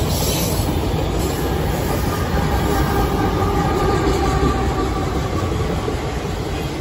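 Train rolling by: a steady rumble of railroad cars on the rails, with a faint wheel squeal through the middle.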